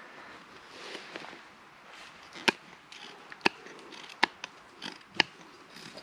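A series of sharp knocks, four strong ones about a second apart, starting about two and a half seconds in.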